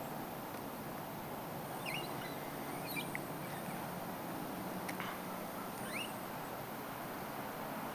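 A few short bird chirps, each a quick rising glide, over steady outdoor background noise, with a single sharp click about five seconds in.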